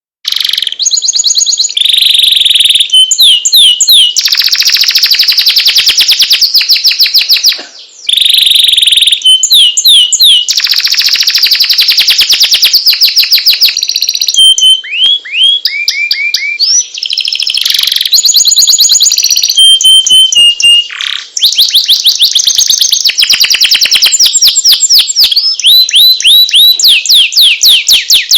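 Domestic canary singing a loud, fast song of rolling trills and rapid repeated chirps and whistles, changing to a new phrase every second or two. It starts abruptly out of silence.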